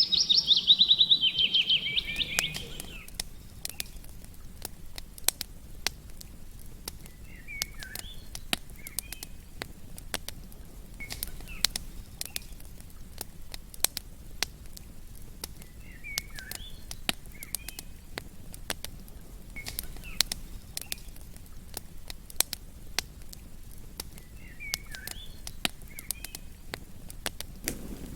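Campfire crackling, with sharp pops at irregular intervals. A bird trills loudly with fast repeated notes for the first two seconds or so, and short chirping calls come back every few seconds after that.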